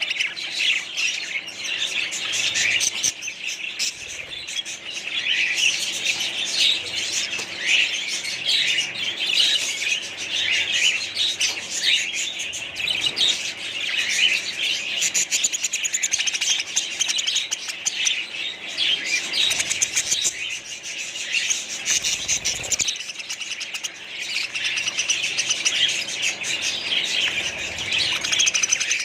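A flock of budgerigars chattering and chirping continuously, with many calls overlapping.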